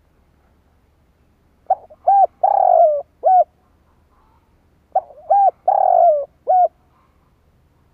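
Spotted dove cooing: two phrases about three seconds apart, each of four notes, with a short coo, an arched coo, a long falling coo and a final short coo.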